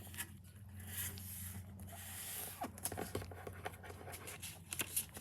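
Sheet of paper being handled and folded: faint rustling and scraping with scattered small crackles, over a steady low hum.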